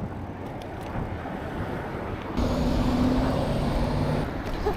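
Road traffic heard from a bicycle. A motor vehicle's engine passes close by about halfway through: the sound jumps louder to a steady low hum for about two seconds, then eases off.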